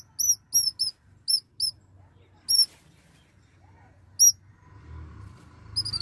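Small bird chirping: short, high, arched chirps, about a handful in quick succession over the first two seconds, then two single chirps, and a quick run of falling notes near the end.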